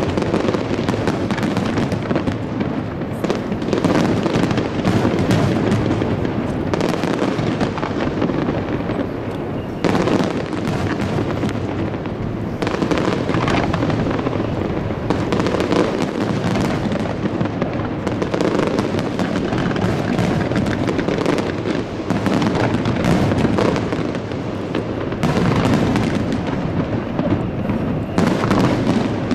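Aerial fireworks display: many shells bursting in quick, overlapping succession, a continuous barrage of bangs with sharper single reports every few seconds.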